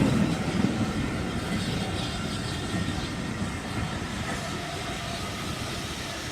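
Steam-hauled heritage train running past, the noise of the train on the rails fading steadily as it moves away.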